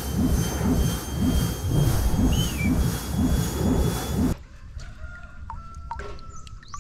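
Toy airplane's engine sound effect: a pulsing drone, about two pulses a second, that cuts off abruptly about four seconds in. After that come a few quieter clicks.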